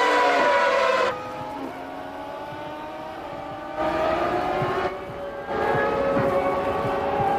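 Formula One race car engines running at high revs, their pitch rising and falling with throttle and gear changes. The sound switches abruptly between shots about a second in and again around four and five and a half seconds in, going quieter and then louder again.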